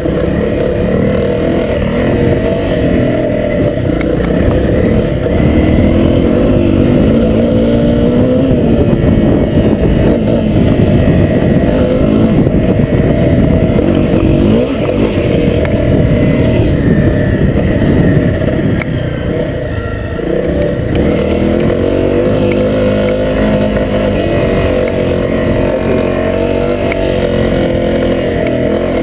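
Honda CRF250L's single-cylinder four-stroke engine running under way, its pitch rising and falling repeatedly as the throttle is opened and closed.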